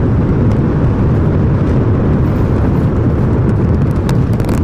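SpaceX Super Heavy booster's 33 Raptor engines running just after liftoff: a loud, steady, deep rumble, with sharp crackling setting in near the end.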